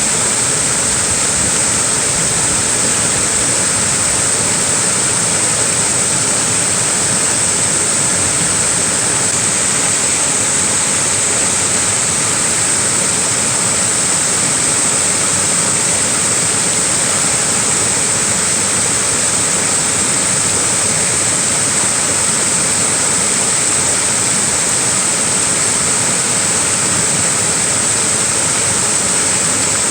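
Small waterfall: water falling and rushing steadily without a break.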